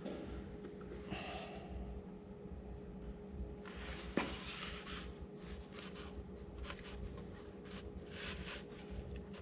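Faint handling noises of hands working assembly lube onto a new engine camshaft and its bearings: scattered rubs and scrapes, with one sharp knock about four seconds in, over a steady low hum.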